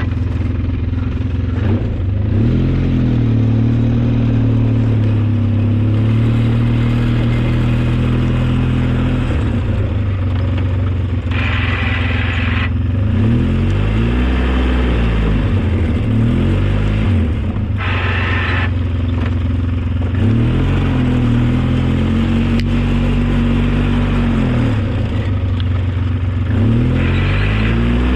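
Engine of an old snow-plowing vehicle running under changing load, its pitch repeatedly dropping and rising again as it works back and forth. A few short spells of higher-pitched noise come in over it.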